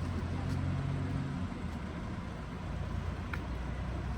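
A motor vehicle's engine runs with a low, steady hum that drops away about one and a half seconds in, over an even hiss of rain.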